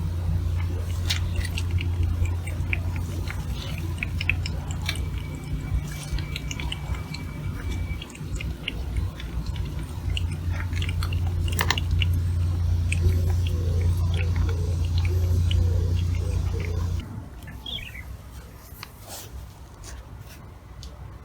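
Many short clicks and crunches, like an animal chewing, over a steady low hum that stops suddenly about 17 seconds in. A few bird chirps follow near the end.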